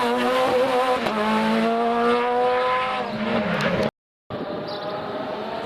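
Rally car engine under hard acceleration, its pitch climbing through a gear and dropping at a shift. It cuts off abruptly about four seconds in, and a quieter engine sound resumes half a second later.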